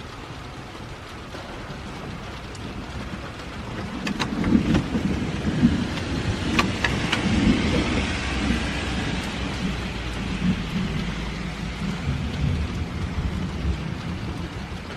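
Heavy rain falling steadily, with a long rolling rumble of thunder that builds about four seconds in and slowly fades away.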